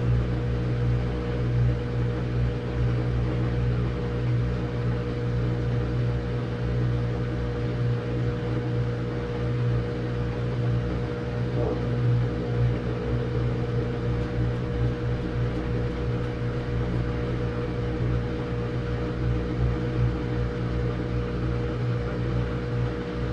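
Samsung front-load washing machine running with a steady motor hum and drum drone.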